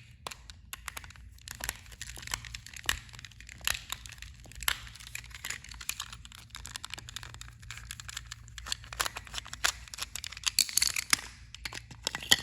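Irregular plastic clicks, taps and rattles from a small battery-powered toy train engine being handled and its battery compartment opened, over a faint steady low hum.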